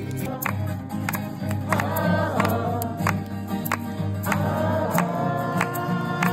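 Live acoustic guitar strummed in a steady rhythm, with singing over it.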